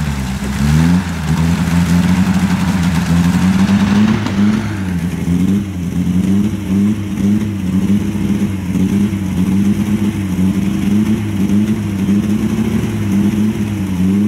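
Off-road 4x4 engine revving up and down over and over as it works against deep mud, with a rushing noise over the first few seconds that stops about five seconds in.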